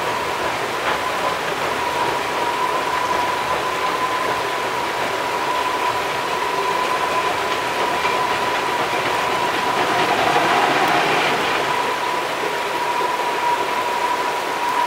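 Narrow-gauge train coaches and a tank wagon rolling across a steel girder bridge, with a steady high whine over the rush of a shallow river. The train grows a little louder about ten seconds in.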